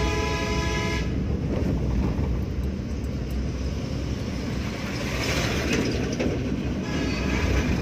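Road and engine rumble of a Hyundai Santro car on the move. A long, steady vehicle horn blast cuts off about a second in.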